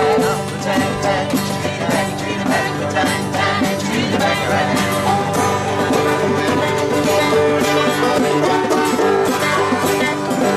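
Live acoustic band playing a fast one-chord jam, with banjo and guitars strumming hard.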